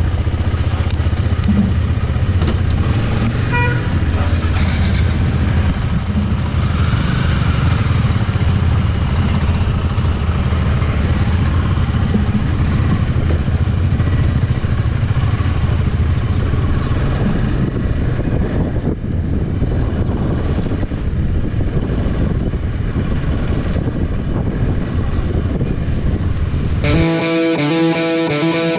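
Motorcycle running steadily on the move, with a steady low engine hum under wind and road noise. Near the end it gives way to music with distorted electric guitar.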